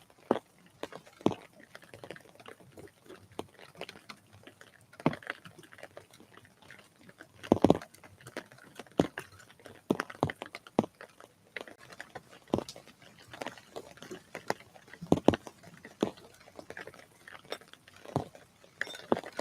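Irregular sharp taps and knocks of birds pecking and landing at a bird feeder, with a louder cluster of knocks about seven seconds in and another near fifteen seconds.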